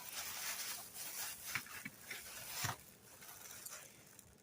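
Pin-back buttons being handled and sorted: faint rustling and scraping with a few small clicks.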